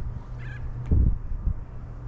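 Wind buffeting the microphone in low rumbles, the strongest about a second in, over a steady low hum. A short bird call sounds about half a second in.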